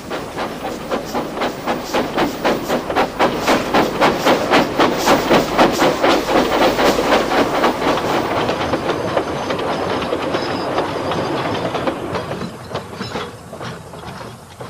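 Steam locomotive passing: quick, even beats at about three a second build to their loudest about halfway through, then give way to a steadier rumble that fades away near the end.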